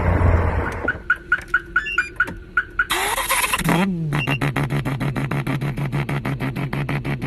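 Turbocharged car engine: a quick string of regular turbo flutter chirps, about five a second, then a loud hiss about three seconds in. After that comes a falling note as the engine drops to a steady, pulsing idle.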